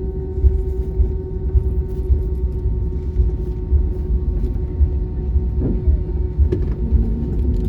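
Inside the cabin of an Airbus A320-232 taxiing: a steady low rumble from the IAE V2500 engines at idle and the wheels rolling on the taxiway, with a constant hum over it. A couple of light knocks come about two-thirds of the way through.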